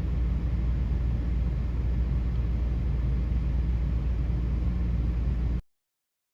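Steady low rumble of a vehicle driving, road and engine noise, which cuts off suddenly near the end.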